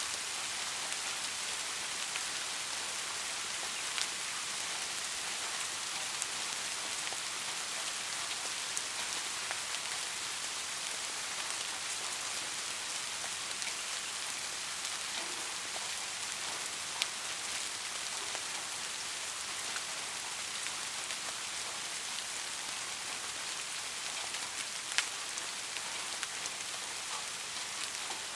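Steady rain falling, an even hiss with scattered louder drops ticking on a hard surface now and then.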